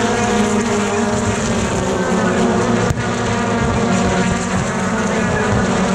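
Several BTCC touring cars' turbocharged four-cylinder race engines running hard together as a pack of cars laps the circuit, with a brief dropout in the sound about three seconds in.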